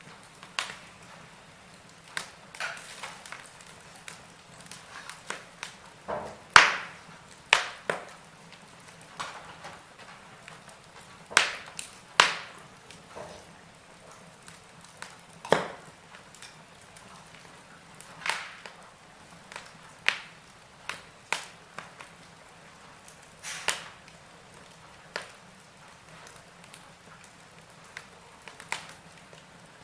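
Wood fire burning in a fireplace, crackling with irregular sharp pops every second or two, the loudest about six and a half seconds in, over a faint steady hiss.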